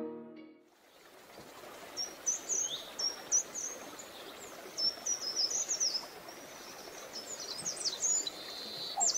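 Small birds chirping: short, high chirps that sweep up and down and repeat over a steady outdoor hiss. They grow busier toward the end, with a rapid trill at the very end. A soft tune fades out in the first second.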